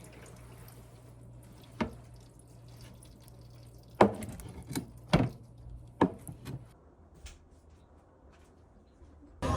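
About six short, sharp knocks and clicks at irregular intervals, like small objects being set down and handled, over a faint steady low hum that stops about two-thirds of the way through.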